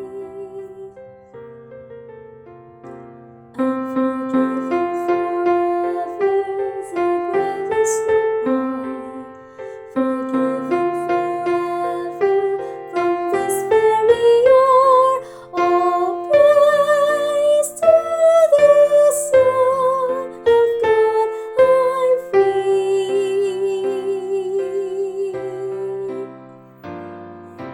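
Piano accompaniment playing an instrumental passage of chords and melody, growing fuller and louder a few seconds in.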